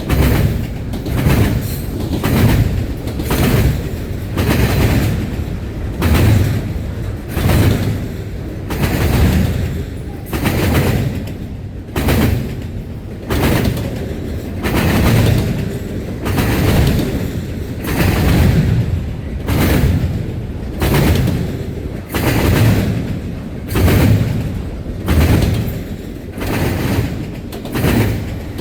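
Freight train cars rolling past, steel wheels banging over rail joints in a steady, repeating clatter about once a second, over a continuous low rumble.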